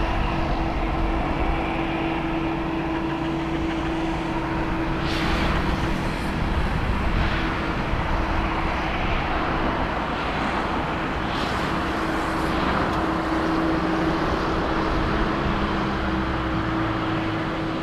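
Jet airliner engines running steadily, a broad rushing noise with a steady hum tone underneath.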